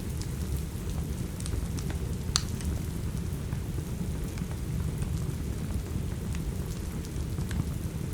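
Steady rain with a low, even rumble, mixed with a wood fire crackling: scattered sharp pops, the loudest about two and a half seconds in.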